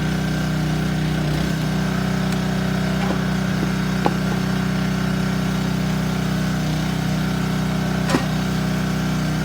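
Small engine of a log splitter running steadily, with two short sharp knocks about four seconds apart.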